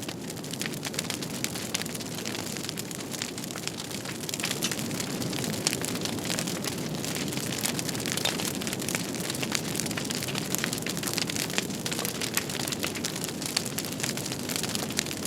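Wood fire burning, with a steady low rush and frequent sharp crackles and pops.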